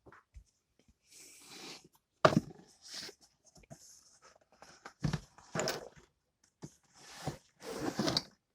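45 rpm records being handled: short rustling, sliding sounds and several light knocks as they are moved and set down.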